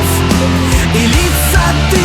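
Rock music in an instrumental passage: an electric guitar lead with bending notes over bass and drums.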